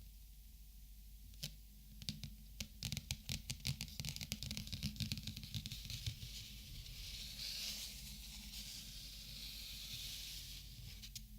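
Plastic Copic markers handled: a click, then a quick run of clicks and taps, followed by several seconds of high crinkling and rustling.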